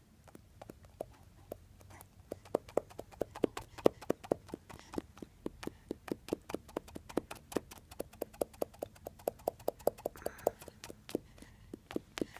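A pet makes a rapid, uneven run of taps, about five a second, as its rump is scratched. The taps start sparse and grow dense and louder about two seconds in.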